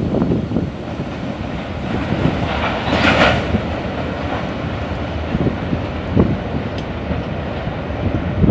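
Freight train cars, mostly covered hoppers, rolling steadily past: a continuous rumble of steel wheels on rail with irregular knocks, and a brief squeal about three seconds in.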